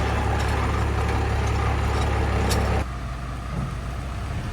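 Cummins diesel truck engine running loud and steady with faint rattling ticks. About three seconds in the sound drops off suddenly to a quieter, lower engine run.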